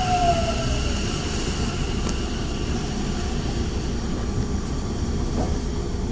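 Tokyo Metro 10000 series train's Mitsubishi IGBT VVVF traction motors and wheels running over the rails, with a low rumble throughout. A motor whine falls in pitch in the first second and the remaining higher tones fade away over the next few seconds, as the train slows.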